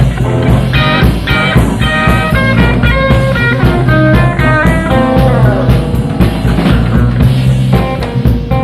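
Live blues-rock band playing an instrumental passage: an electric guitar plays a running lead line of quick melodic notes over bass guitar and drum kit. It is taken straight from the soundboard mix.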